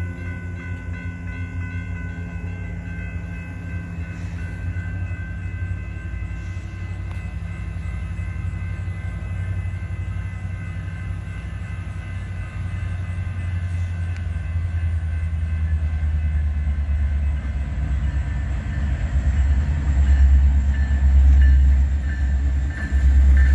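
Diesel-hauled freight train approaching: a low locomotive rumble that grows steadily louder through the second half. In the first half a set of high, steady tones sounds and then fades out.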